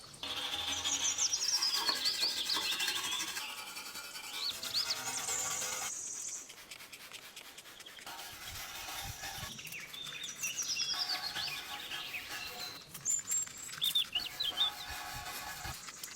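Birds chirping in quick runs of high, falling notes, over a steady background noise.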